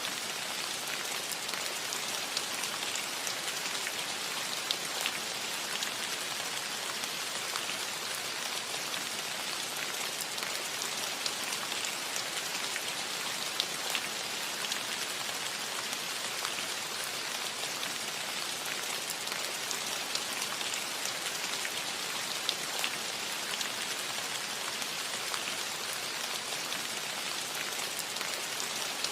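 Steady rain on a metal roof: an even hiss of rainfall with scattered individual drops ticking on the metal.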